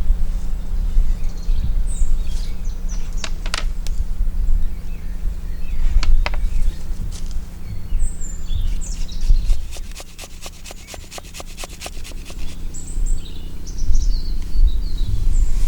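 Songbirds chirping in the open air over a steady low rumble. A few sharp clicks fall in the first half, then a quick run of taps, about ten a second, lasts roughly three seconds.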